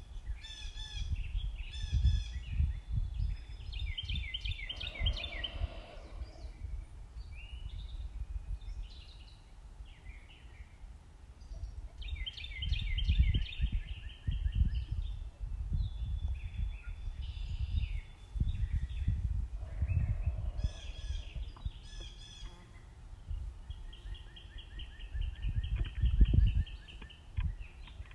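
Backyard songbirds singing: rapid repeated chirp phrases and trills come again and again, with a few pauses. Under them runs an uneven low rumble that swells in places, loudest about 26 seconds in.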